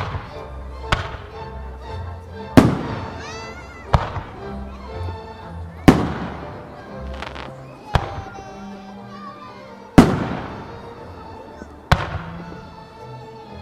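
Aerial firework shells bursting about every two seconds in a music-synchronised starmine. Each is a sharp bang with a decaying echo, heard over the show's music.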